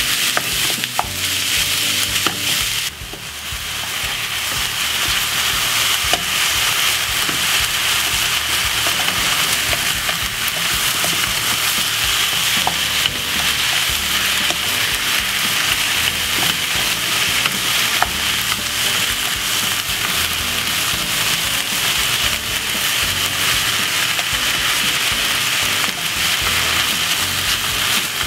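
Minced beef and onions sizzling in hot oil in a frying pan as they brown. A wooden spatula stirs them, with small scrapes and taps against the pan. The sizzle drops briefly about three seconds in, then runs steadily.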